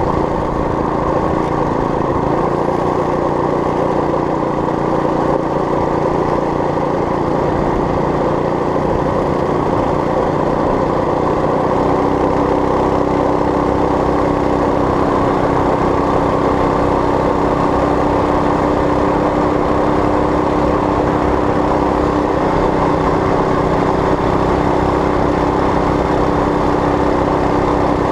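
Small engine of a homemade mini bike running steadily, its pitch holding nearly constant.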